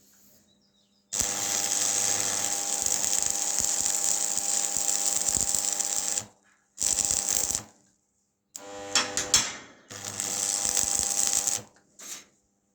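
Electric welding arc crackling and hissing in bursts: one long run of about five seconds, then shorter ones with abrupt starts and stops. The third starts with sputtering clicks as the arc strikes.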